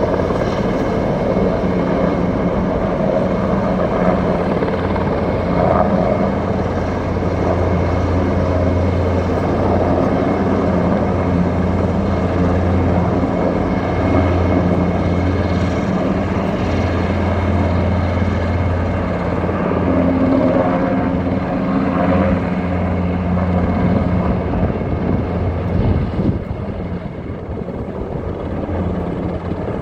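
KUH-1 Surion twin-turboshaft helicopter flying, a steady rotor and turbine drone throughout that eases off slightly near the end.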